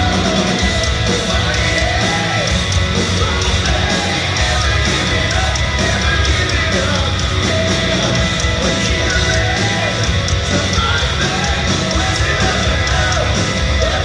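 Hard-rock band playing live: distorted guitars, bass and drums with a strained, shouted lead vocal, loud and steady in a large hall.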